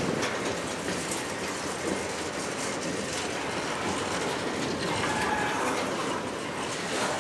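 Freight train of covered hopper cars rolling past, a steady rumble with the clickety-clack of wheels over the rails. A faint high wheel squeal comes in about five seconds in.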